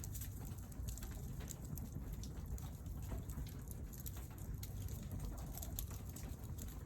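Wood fire burning on a stainless-steel mesh fire stand, crackling with irregular sharp pops over a steady low rumble.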